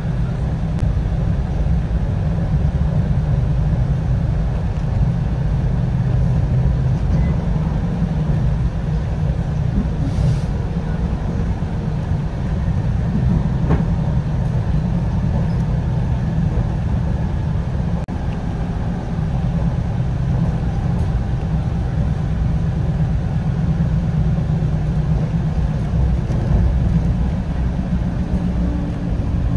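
Steady low rumble of a passenger train running at speed, heard from inside the carriage: wheels on the rails and the car's running noise, with a faint click now and then.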